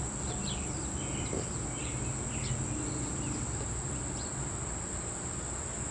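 Insects, crickets or similar, droning in a steady high-pitched chorus, with a few short chirps scattered over it and a low hum underneath.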